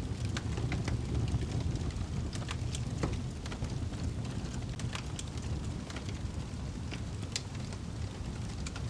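Wood fire crackling in a fireplace: irregular sharp pops and snaps over a steady low rumble, with one sharper pop late on.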